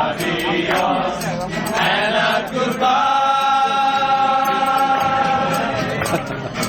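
Voices singing with music; about halfway through, a single note is held for roughly three seconds.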